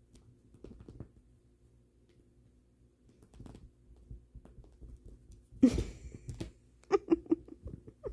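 Scattered soft rustles and knocks, growing into a brief cluster of sharper knocks and scuffles a little past halfway.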